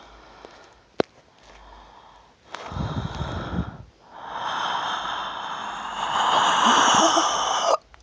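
A person making a spooky noise with the voice: a short low rasp, then a long raspy wheezing hiss that grows louder and cuts off suddenly near the end.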